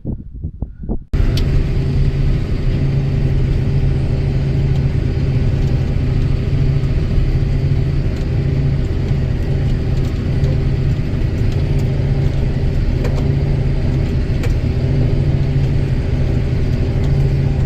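Motor vehicle engine running steadily at a constant speed, loud and heard close up. It cuts in suddenly about a second in.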